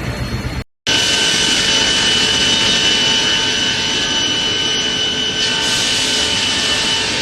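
Fibre cement board production machinery running: a loud, steady mechanical noise with a high whine held over it. The sound cuts out for a moment under a second in and resumes at once.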